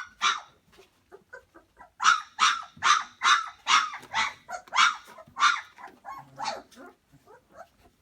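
Two-and-a-half-week-old Pyrenean Mastiff puppy yelping: a quick run of about a dozen short, high-pitched yelps, about two a second, from about two seconds in, with fainter whimpers around them.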